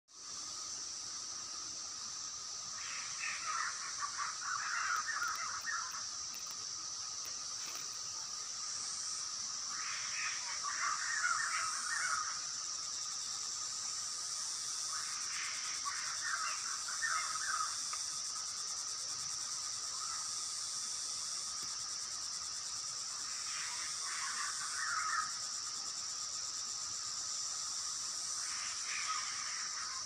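A bird calling in phrases of quick, clustered notes, repeated five times about six seconds apart, over a steady high-pitched insect drone.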